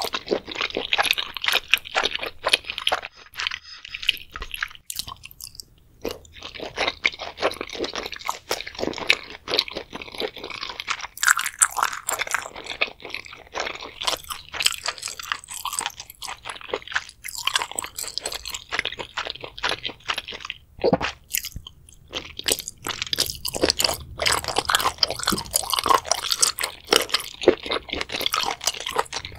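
Close-miked chewing of spicy boiled seafood, with wet mouth clicks coming in quick, irregular runs. There are brief pauses about five seconds in and again about two-thirds of the way through.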